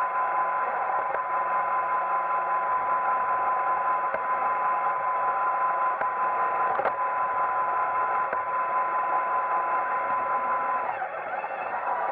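iRobot Roomba 880 robot vacuum running, its motor and brushes making a steady drone with a constant whine. A single knock comes about seven seconds in, and near the end the whine falters and the sound briefly drops.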